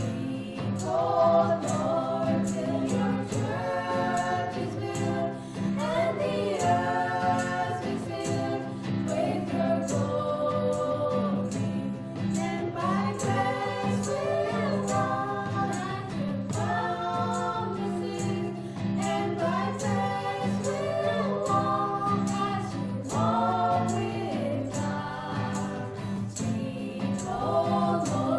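Choir singing a gospel song with instrumental accompaniment, held low notes under the voices and a steady beat.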